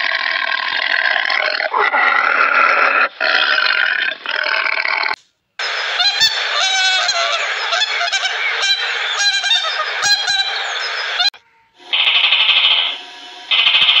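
Domestic goose honking in a run of calls through the middle seconds. Before it is a different, rougher sound that cuts off abruptly, and after a short break a repeating higher-pitched sound starts near the end.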